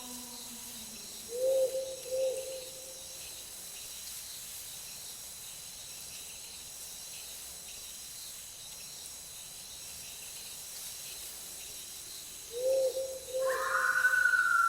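Night forest ambience: a steady high chirring of insects such as crickets, with a low two-note hoot about a second and a half in and again near the end. Just before the end a louder sliding, wavering tone comes in.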